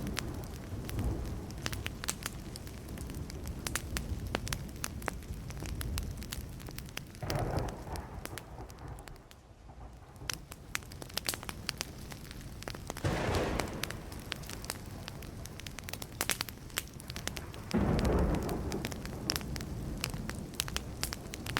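Burning wood fire crackling and popping steadily with many sharp snaps. Three short, low rumbles of distant thunder swell up about a third, three fifths and four fifths of the way through.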